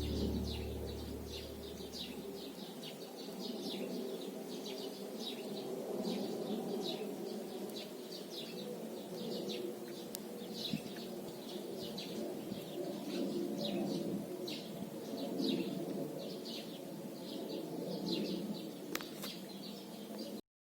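Small birds chirping in short repeated notes, about two a second, over a steady low background hum. Background music fades out over the first two seconds, and the sound cuts off abruptly near the end.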